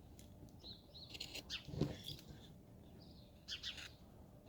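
Carving knife cutting hard wood in short scraping strokes, with a few brief high chirps and one firmer knock about two seconds in.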